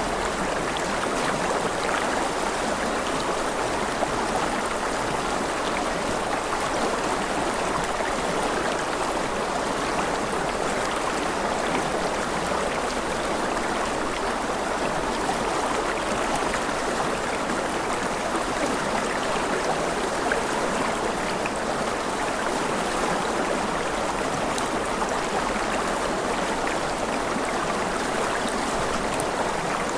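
Steady running water of a stream, an even rushing and trickling that does not change.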